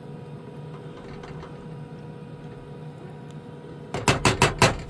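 Steady low hum of a running diesel heater, then near the end four quick, sharp knocks in under a second.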